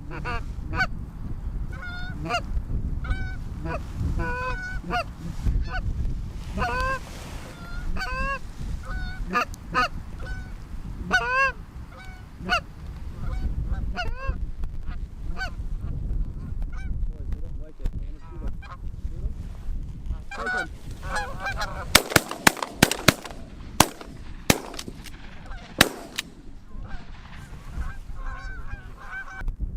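Canada geese honking repeatedly as a flock comes in, then a rapid volley of about eight shotgun shots over some four seconds. A low wind rumble runs underneath.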